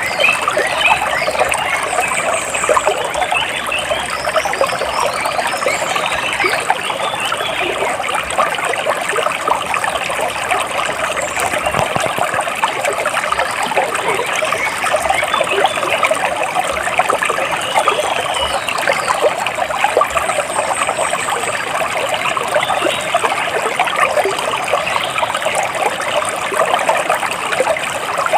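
Water splashing and trickling steadily, with a few faint bird chirps now and then.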